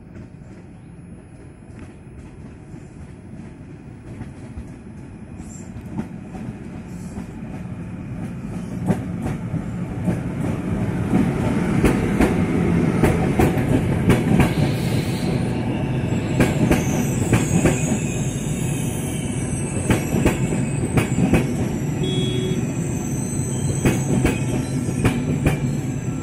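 PKP Intercity express train hauled by an EU44 Husarz electric locomotive, approaching and growing louder over about ten seconds, then its carriages rolling past. The wheels clatter over the rail joints, and a high squealing starts about sixteen seconds in.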